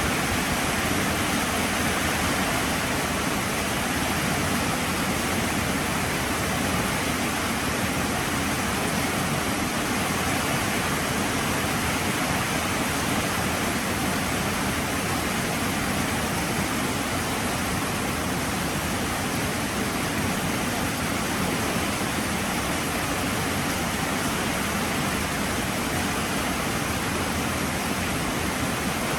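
Heavy rain falling steadily as a dense, even hiss, with no separate drops or changes in strength.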